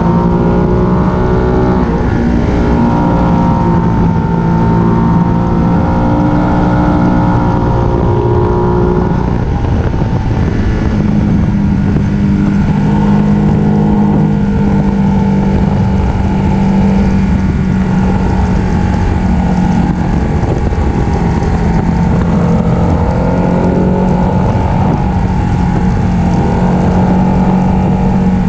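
Ducati 1299 Panigale's L-twin engine running under way, heard from on the bike. The engine note holds near steady cruising revs, rising and falling a little with the throttle through the bends.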